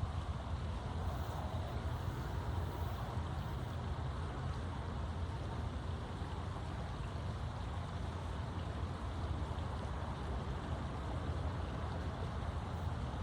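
Steady outdoor background noise: a low rumble with a fainter hiss, unchanging and without distinct sounds.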